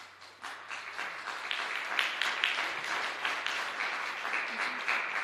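Audience applauding in an auditorium at the end of a musical number, a dense clapping that swells over the first two seconds and holds.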